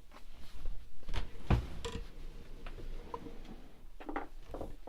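Handling noise: scattered light clicks and knocks, with one louder thump about a second and a half in, as loose drone pieces are searched for and picked up.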